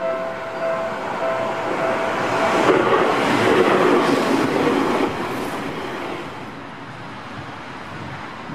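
Electric commuter train of the Seibu Ikebukuro Line passing close by, loudest about three to five seconds in, then fading. A steady pitched tone heard as it approaches stops about two and a half seconds in.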